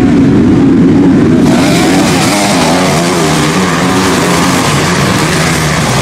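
Motocross bike engines revving up and down in pitch as they race. A broad rush of noise joins about a second and a half in.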